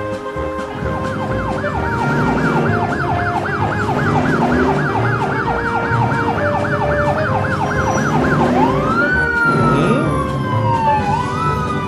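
Siren of an animated emergency vehicle, first in a fast yelp that rises and drops about four times a second, then switching about eight seconds in to slower rising and falling wails.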